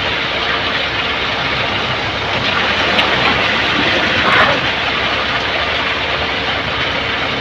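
Steady, loud machinery noise from concrete road construction work, with a brief louder moment about four seconds in.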